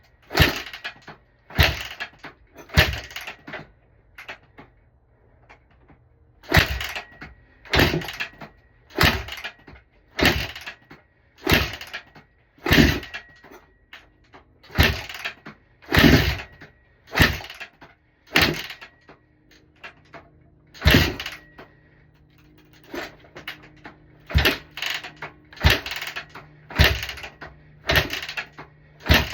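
Honda CRF150R four-stroke single being kick-started over and over, about one kick a second in runs of several kicks with short pauses, without the engine catching and running.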